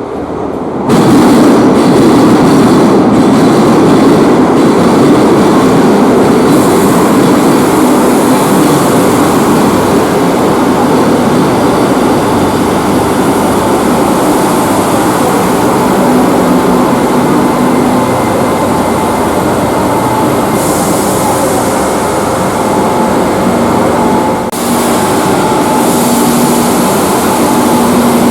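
Madrid Metro Line 5 train running through an underground station, a loud, steady rumble that begins suddenly about a second in. Steady motor tones join it about halfway through.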